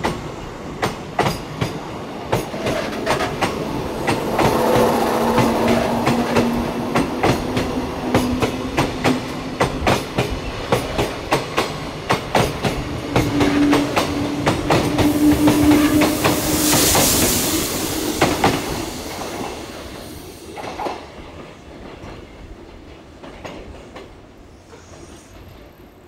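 Kintetsu electric train running over rail joints, its wheels clicking in a quick steady clickety-clack with a steady low hum. It grows louder until past halfway, gives a brief hiss, then fades away over the last several seconds.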